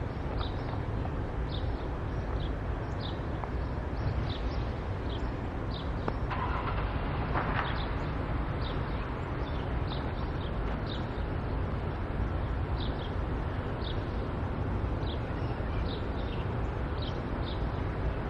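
A steady low rumble with a small bird chirping repeatedly, short high chirps about once or twice a second.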